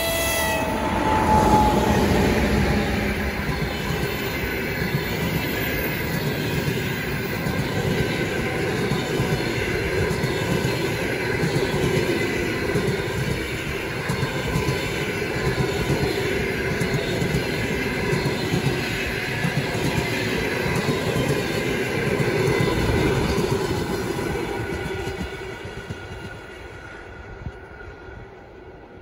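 A train passing close by on the rails: the last of a train horn blast dies away in the first second or two, then the steady running noise of the cars' wheels on the track carries on and fades out as the train moves away near the end.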